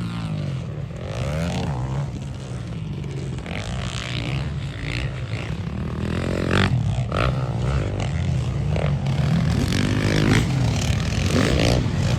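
Motocross dirt bike engines revving, their pitch rising and falling with the throttle, growing a little louder toward the end.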